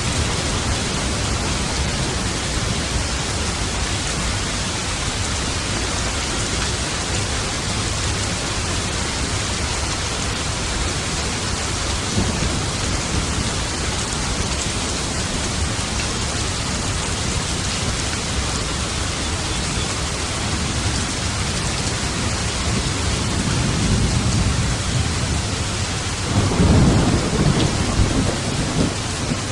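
Steady rain falling, with thunder rumbling low underneath; a louder roll of thunder swells near the end.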